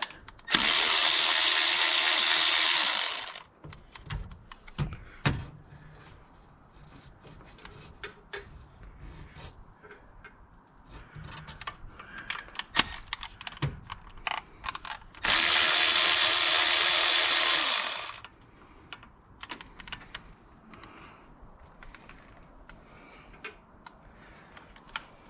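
Power tool with a socket spinning out water pump bolts, running steadily for about three seconds twice, near the start and again midway. Between the runs come small clicks and clatter of bolts and tools being handled.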